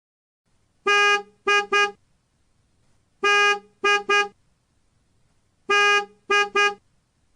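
Vehicle horn honking in a repeated pattern: one long honk followed by two quick short ones, three times over at an even pace.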